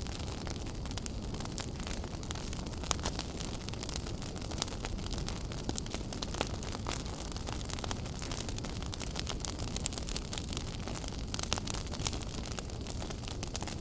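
Wood fire crackling in a fireplace: a steady low rumble and hiss of the flames with frequent, irregular sharp crackles and pops.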